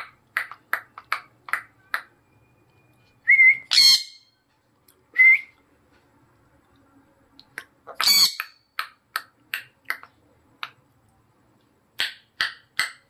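Pet parrot chirping in quick short calls, with two loud harsh squawks about four and eight seconds in and a couple of short rising whistles.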